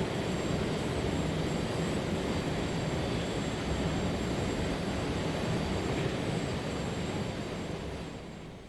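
A steady, dense rushing noise with most of its weight low down, fading out over the last second or so.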